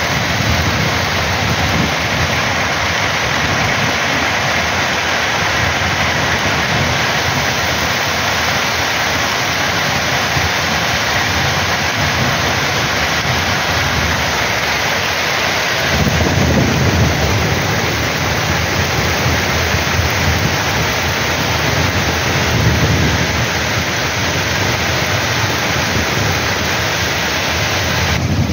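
Heavy downpour: a steady, dense hiss of rain on the street and roofs. About halfway through a low rumble of thunder swells for a few seconds, and a weaker one follows a few seconds later.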